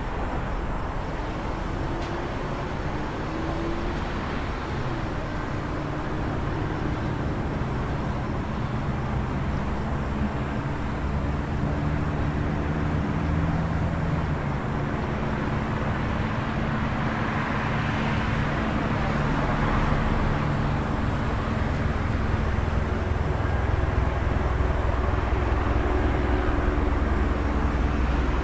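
City traffic ambience: a steady low rumble of vehicle engines, swelling briefly about eighteen seconds in and growing gradually louder toward the end.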